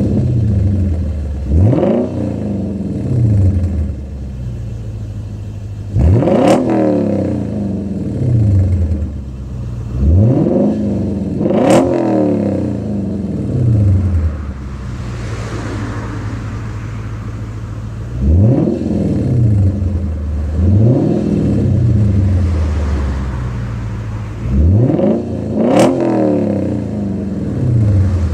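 Lexus IS F's 5.0-litre V8 through an aftermarket Hayward & Scott exhaust with X-pipe, warm, idling with a deep rumble and blipped up in short revs about eight times, some in quick pairs, each time dropping straight back to idle.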